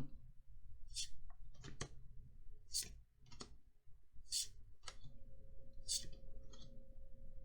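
Trading cards sliding against one another as a pack of Magic: The Gathering cards is flipped through, giving about seven short swishes and light clicks a second or so apart.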